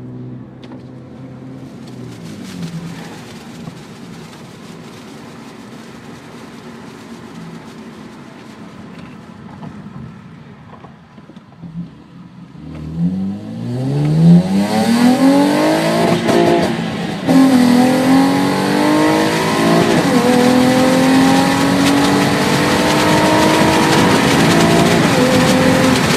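Aftermarket bolt-on exhaust on a Honda Accord's 3.0-litre V6, steady and low at first, then opened up about halfway in for a hard pull through the gears of the six-speed manual. The pitch climbs loudly, drops at each upshift and climbs again.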